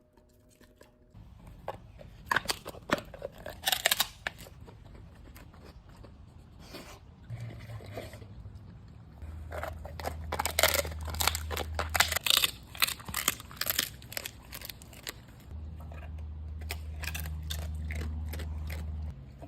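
Dogs eating a raw meal, chewing and crunching through meat, ground bone and a cow ear, with many sharp crunches and tearing sounds coming in irregular bursts.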